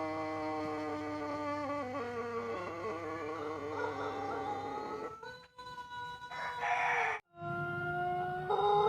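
Pelung roosters crowing. One very long, drawn-out crow falls slowly in pitch, wavers in the middle and trails off. After an abrupt break about seven seconds in, another crow starts and rises a step near the end.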